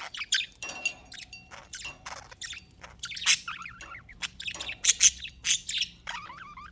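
Several pet budgies chattering together in quick, overlapping chirps, warbles and squawks.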